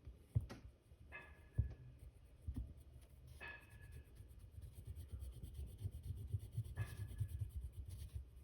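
Colouring on paper: rapid back-and-forth scratchy strokes as the colour is shaded in, with a few sharp taps in the first three seconds.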